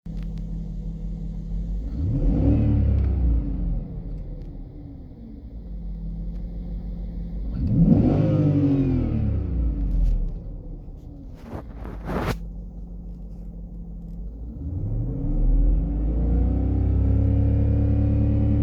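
BMW M62TUB44 V8 idling and being revved: two short blips of the throttle, then a longer rise in revs that is held for the last few seconds. A few sharp clicks sound between the first revs and the last.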